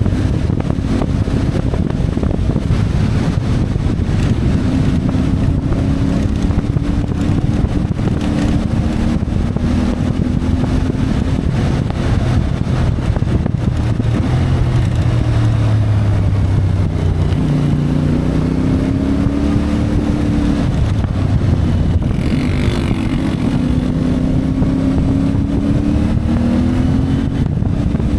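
CFMoto 450MT's parallel-twin engine running under way, its pitch rising and falling repeatedly with the throttle, over steady wind noise on the microphone.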